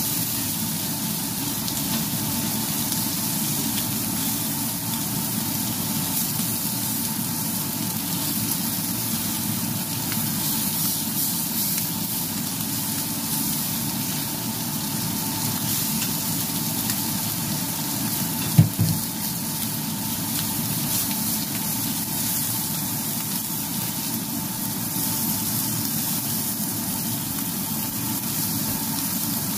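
Frenched rib chops and garlic cloves sizzling steadily in hot oil in a frying pan, with one short knock about two-thirds of the way through.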